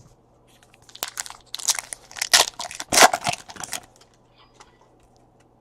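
Foil wrapper of a trading card pack crinkling and crackling as it is handled and opened, in a run of rustles lasting about three seconds.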